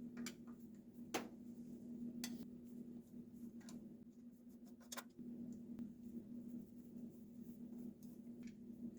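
Scattered light clicks and taps of hand tools and small parts on a carburetor being taken apart, over a faint steady hum.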